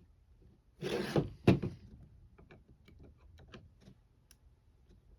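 A short scrape and a sharp knock about a second and a half in, then a string of faint, irregular clicks: a screw being worked by hand into the camper's window frame, where it fails to bite.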